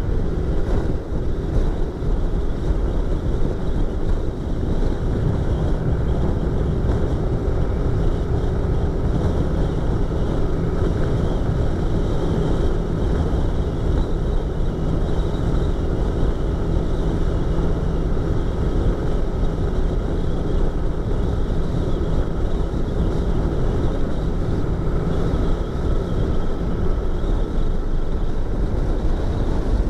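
Yamaha YZF-R25's 249 cc parallel-twin engine and exhaust running at a steady cruise, heard from inside the rider's helmet with wind rushing over it.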